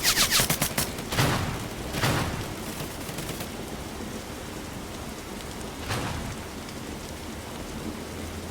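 A rapid burst of airsoft gunfire, about a second of quick sharp shots, followed by three louder noisy rushes about one, two and six seconds in, over a steady hiss.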